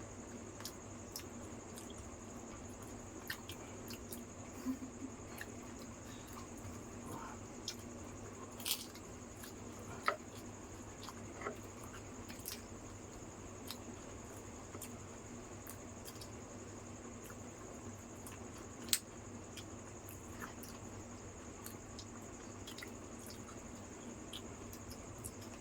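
A person eating dahi phuchka: crisp puri shells biting and cracking, and wet chewing of the yogurt, potato and chutney filling, heard as scattered small clicks and squishy mouth sounds over a steady background hum.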